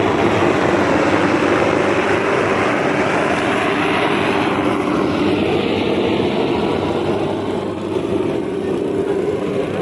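A large engine or heavy machine running steadily and loudly. It gets a little quieter near the end, with the higher part of the sound falling away about halfway through.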